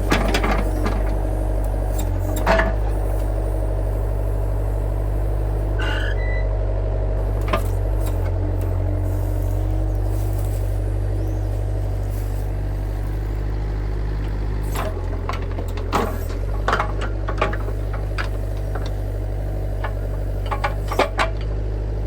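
Excavator engine running steadily, with scattered sharp clanks and scrapes as the bucket digs into rocky ground around an old fence post.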